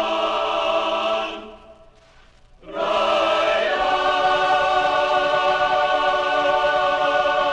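Choir singing long held chords. The chord fades away about a second and a half in, and after a brief gap a new chord begins, shifting to another chord about a second later.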